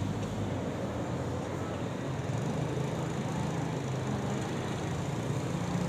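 A steady engine-like low hum under a constant noisy wash, with no clear breaks or impacts.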